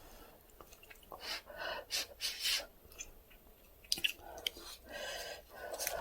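Close-miked chewing of Dosirak instant ramyeon noodles: irregular wet smacking clicks and short bursts of mouth noise.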